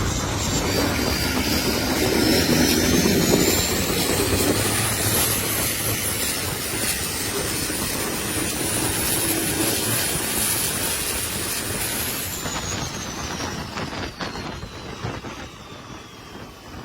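Turbocharged fishing-boat engine running hard, with a high turbo whine that climbs over the first few seconds, holds, then falls away as the engine noise fades near the end.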